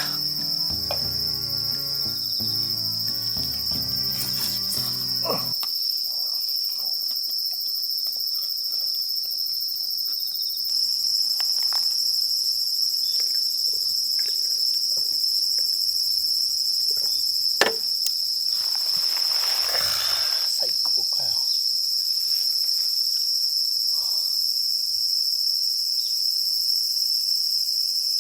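Steady, high-pitched chorus of night insects chirring without a break. Soft music plays under it for the first five seconds or so, and there is a single sharp click about two-thirds of the way in, followed by a brief rustle.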